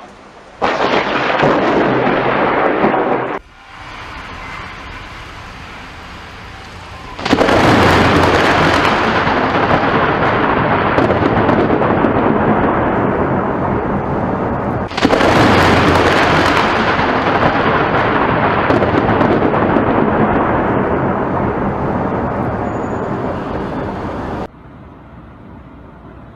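Close lightning strikes: loud thunder that sets in suddenly and rolls on for several seconds, slowly fading. There are two long strikes in the second half, and the sound cuts off abruptly between strikes.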